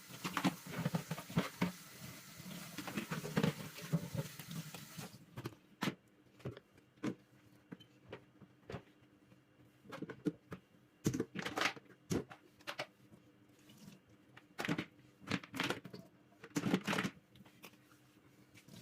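Dry pulses pouring into a storage container: a dense, rattling patter of small hard grains for about the first five seconds. Then come scattered separate clicks and knocks, about ten of them.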